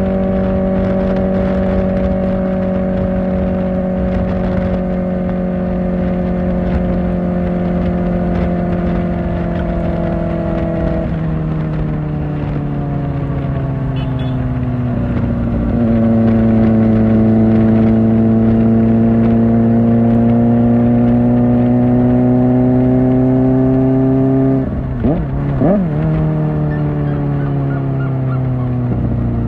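Kawasaki Ninja ZX-4R's inline-four engine through an Akrapovic exhaust, ridden at high revs. Its pitch drifts slowly, then steps down at gear changes about 11 and 15 seconds in. It runs louder from about 16 seconds, stutters briefly near 25 seconds, and drops again with another shift at the very end.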